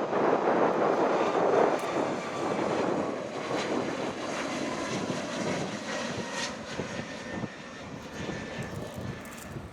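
Jet noise from a departing Boeing 737 MAX 8's CFM LEAP-1B turbofan engines: a loud, dense rumble that gradually fades as the airliner moves away, leaving a faint whine near the end.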